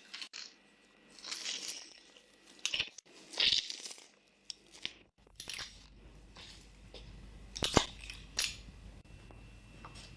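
Kitchen handling sounds while a meat marinade is made: a run of short rustling and scraping bursts with a few sharp clicks, the loudest click nearly eight seconds in.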